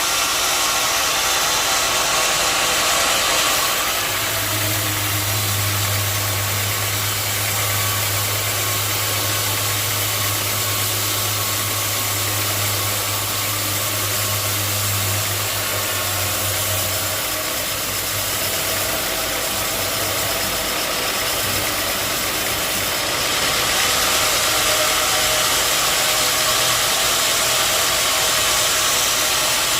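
Engine-driven sawmill running steadily with a loud hiss, and a strong low hum between about 4 and 17 seconds in.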